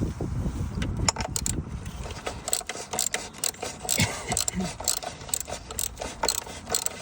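Irregular clicking and clinking of metal hand tools and parts being handled, starting about a second in after a short low rumble.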